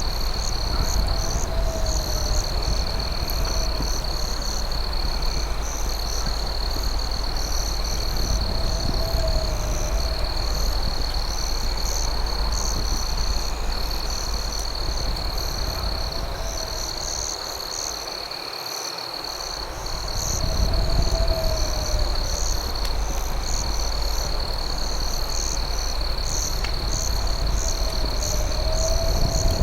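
Night insect chorus: crickets chirp in quick pulses over a steady high trill. A frog croaks about every six seconds, all above a steady low rumble.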